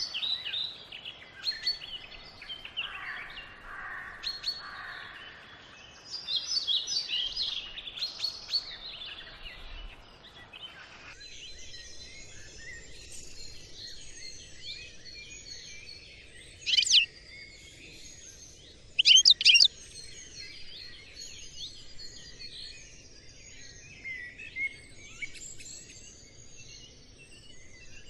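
Small birds chirping and twittering in a busy chorus, with two louder, sharp calls about two-thirds of the way through.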